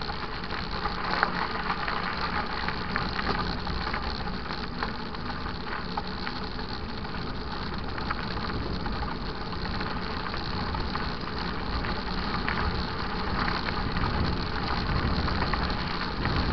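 Steady rumble and rattle of a mountain bike ridden over a dirt trail, with tyre noise and wind on the microphone and many small clicks and knocks.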